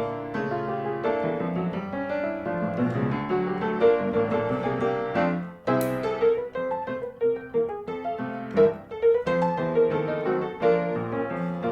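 Background piano music, a steady flow of notes, with a brief break and a short hiss about six seconds in.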